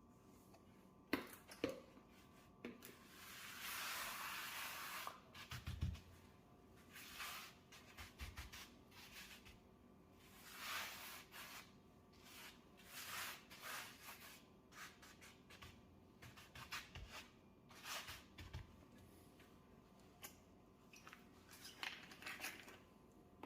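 Hand scrubbing of a dirty stove and oven: irregular rubbing strokes about a second apart, with a few light clicks near the start, a longer hiss about four seconds in, and an occasional low thud.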